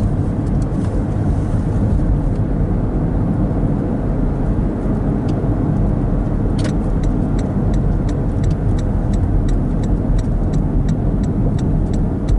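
Car interior road and engine noise while driving, a steady low rumble. About halfway through, a light, regular ticking begins at two to three ticks a second and continues.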